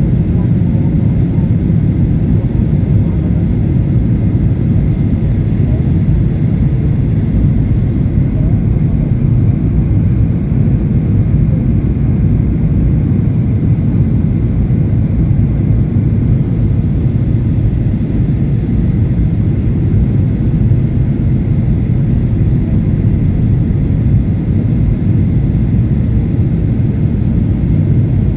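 Airliner cabin noise: the steady low rumble of jet engines and airflow heard from inside the passenger cabin of a Batik Air jet in flight.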